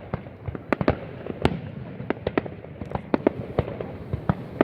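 Fireworks going off in a continuous barrage: irregular sharp bangs, several a second, over a steady background crackle of distant bursts.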